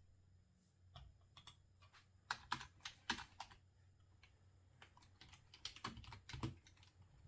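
Quiet typing on a computer keyboard: short runs of keystrokes, about a second in, then two busier runs around the middle and near the end, with pauses between.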